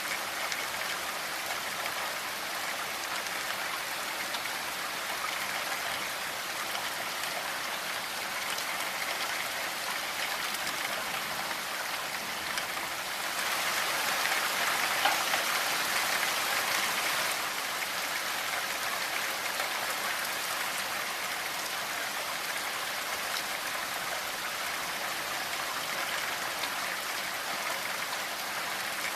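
Steady rainfall, an even hiss of drops, swelling heavier for a few seconds about midway through.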